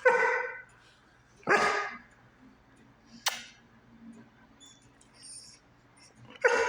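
German shepherd dog barking: three loud, short barks, the first two about a second and a half apart and the third near the end, with a sharp click between them.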